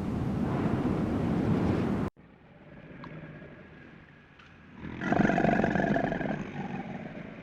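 A steady rushing noise that cuts off abruptly, then about five seconds in a long, low lowing call from a cow or buffalo-type bovine that fades out.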